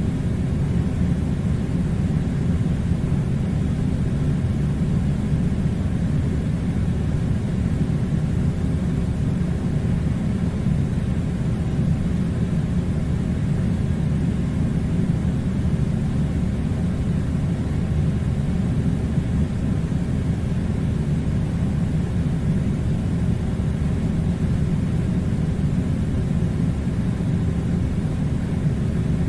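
Air conditioner running: a steady, unchanging low rumble.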